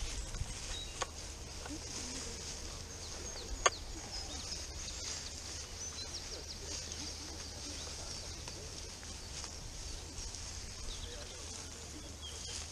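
Small birds chirping over a low steady rumble, with one sharp click a few seconds in.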